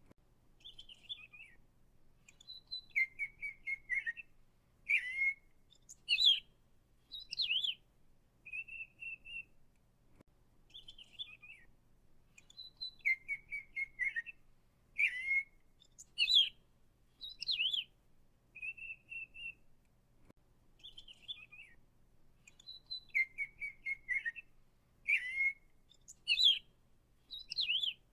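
Birdsong: short chirps and whistled notes, some gliding down in pitch. The same sequence of notes repeats about every ten seconds.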